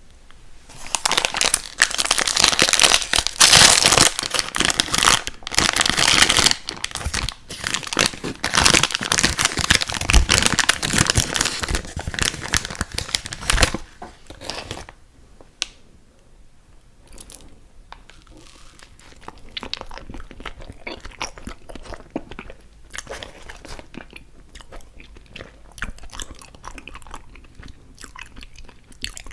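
Close-miked eating of ice cream sandwiches: loud, dense crunching and crinkling for about the first half, then quieter, sparser chewing.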